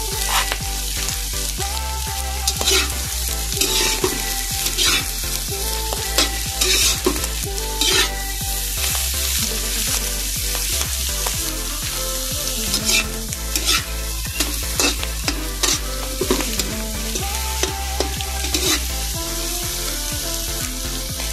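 Mussel meat, onion and oyster mushrooms sizzling in hot oil in a kawali (wok) while a spatula stirs them, scraping against the pan in repeated strokes.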